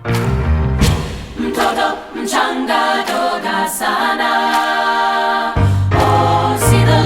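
Women's chorus in three parts (SSA) singing a rhythmic, African-inspired choral arrangement. For about three and a half seconds in the middle the lowest sounds drop away, leaving only the upper voices, then come back in.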